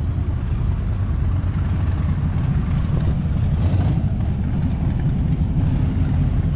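Engine idling steadily, a continuous low rumble.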